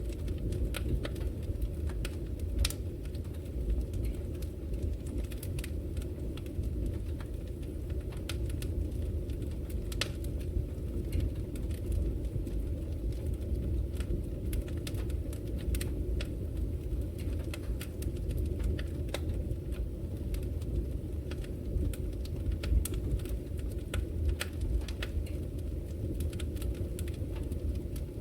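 Wood logs burning in a fireplace: a steady low rushing of the flames with scattered sharp crackles and pops.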